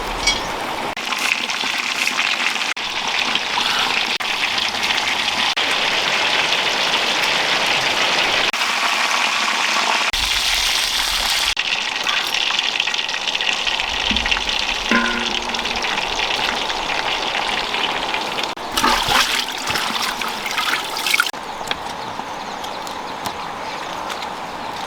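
Water running and splashing steadily, with a few louder irregular splashes and knocks near the end.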